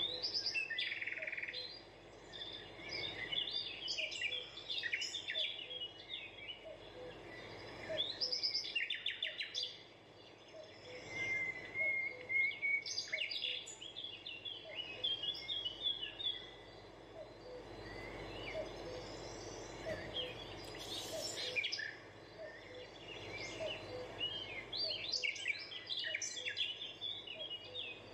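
Birds chirping in repeated bursts of quick, high chirps and trills, with short gaps between bursts, over a faint steady background.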